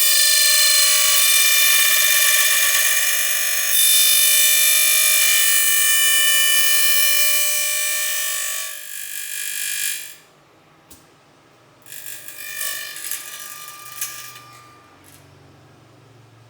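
Milling machine cutting aluminium, a loud high-pitched screech with many overtones for about ten seconds, then a shorter, quieter screech a couple of seconds later.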